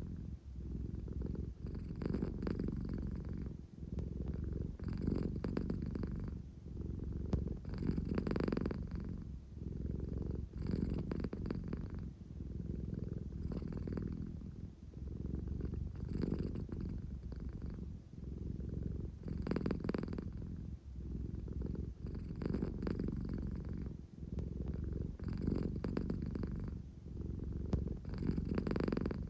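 American Shorthair cat purring steadily, a low rumble that swells and eases with each breath, about every three seconds.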